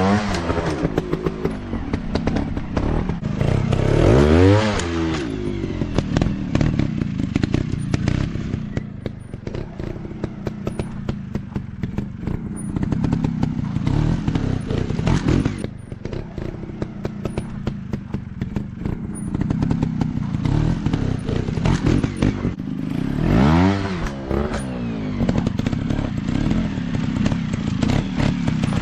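Dirt bike engines running hard off-road, the throttle blipped on and off constantly, with the revs sweeping sharply up and back down about four seconds in and again near the end.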